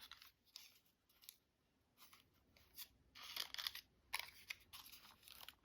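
Faint handling of craft paper: a few short, crisp rustles in the second half.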